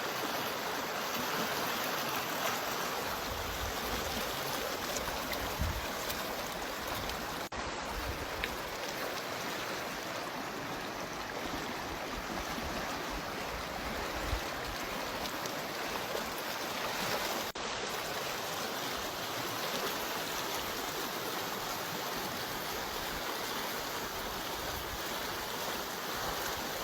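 Steady rush of water from a waterfall or fast stream, briefly cut twice where clips are joined.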